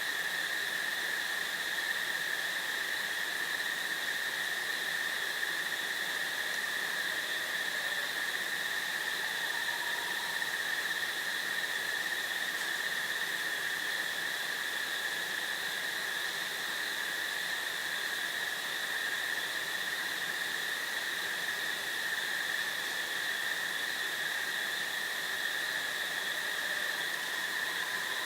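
Steady, unbroken insect chorus, a continuous high trill at two pitches over a light hiss of breeze. A faint short call comes in about ten seconds in and again near the end.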